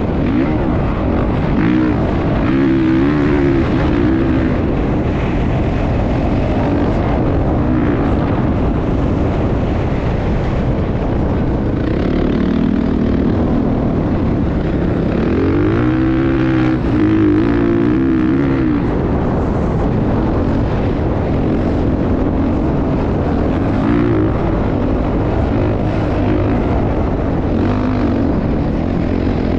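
Motocross bike engine running and being revved up and down, its pitch rising and falling several times over a continuous loud drone.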